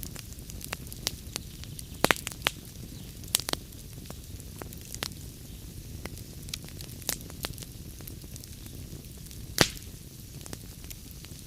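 Wood fire crackling in a fireplace: irregular sharp pops and snaps over a low, steady rumble of flame. A few quick snaps come about two seconds in, and the loudest single pop comes near the end.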